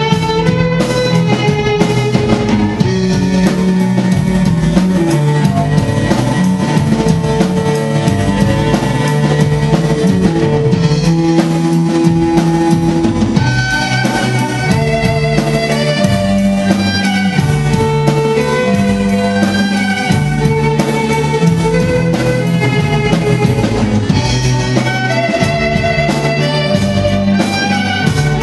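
Rock song in an orchestral arrangement: bowed strings, violins and cellos, playing the tune in long held notes over a drum kit beat.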